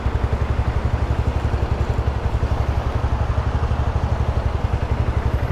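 Honda CG 160 Titan's single-cylinder four-stroke engine idling, with a steady, quick, even low pulse.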